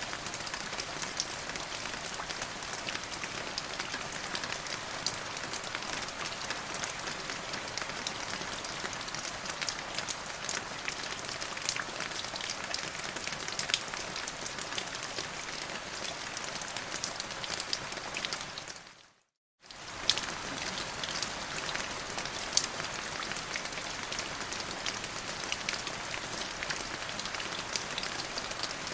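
Steady rain, an even hiss with many separate drop hits. About 19 seconds in it fades to silence for half a second, then comes back.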